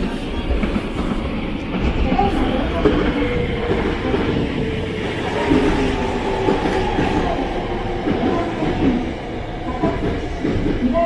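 Hankyu Kyoto Line limited express train pulling into the platform and slowing, wheels rumbling and clacking on the rails. A wavering whine runs over the rumble.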